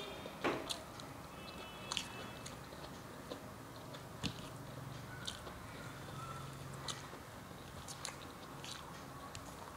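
Close-miked eating sounds: a person chewing a mouthful of rice and curried vegetables, with irregular soft wet smacks and clicks. The loudest smack comes about half a second in.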